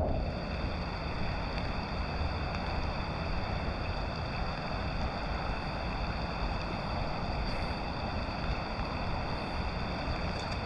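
Steady rush of overflow water flowing over a concrete feature, an even noise with no breaks.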